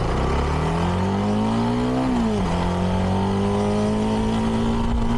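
CFMoto 300NK's single-cylinder engine through its stock exhaust, accelerating with a rising note, then shifting up about two seconds in and pulling on at a slowly climbing pitch.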